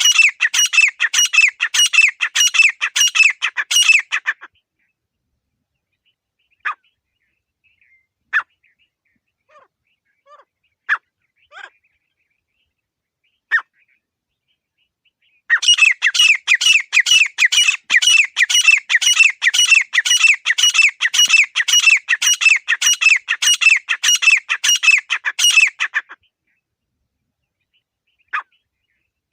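Grey francolin (desi teetar) calling: loud, rapid repeated notes, about four a second, in two long bouts, one at the start and one from about halfway to near the end. A few scattered single notes fall in the pause between them.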